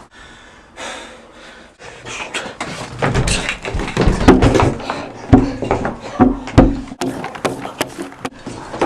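A run of heavy, irregular thumps and knocks that starts about three seconds in, a few of them loud bangs.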